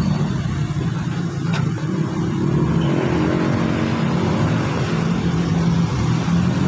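An engine running steadily, a low continuous hum with no change in speed.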